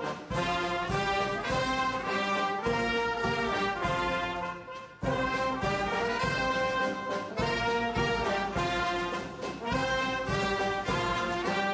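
Orchestral music led by brass, trumpets and trombones playing sustained chords over a steady beat, with a brief pause about four and a half seconds in.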